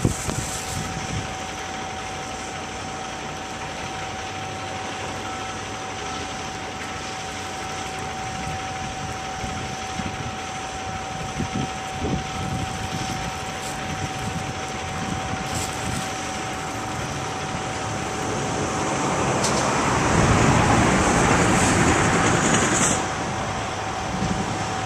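Delivery truck running, with a steady whine over the noise. It grows louder about three quarters of the way through, then drops off suddenly shortly before the end.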